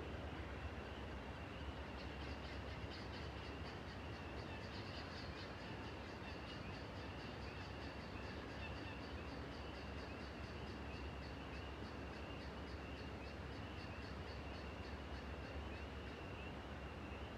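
Faint outdoor animal chorus: a steady high chirping, joined about two seconds in by a rapid pulsed call of about four notes a second, over a low steady rumble.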